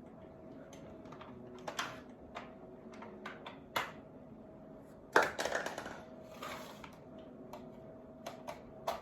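Handling noises from a blow dryer and its cord being plugged in: scattered clicks and light knocks of plastic, with a louder rustle about five seconds in.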